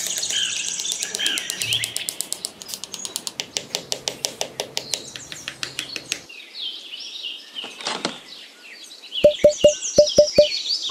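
Birds chirping and tweeting. A fast, even rattle of clicks runs through the middle, and near the end come about seven sharp, loud clicks in quick succession, each with a short ringing tone.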